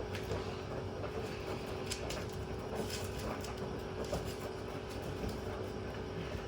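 Washing machine running with a steady hum and low rumble, with scattered light clicks and rattles.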